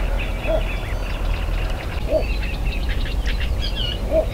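Birds singing outdoors: many small birds chirping, with a lower call repeated three times about two seconds apart, over a steady low rumble.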